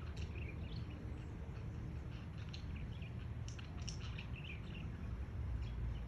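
Small birds chirping: short, high chirps scattered irregularly throughout, over a steady low rumble of outdoor background noise.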